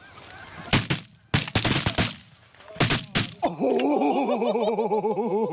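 A ragged volley of shotgun blasts from several hunters firing at lesser Canada geese: about seven shots over two and a half seconds. Near the end, a fast run of goose honks starts up.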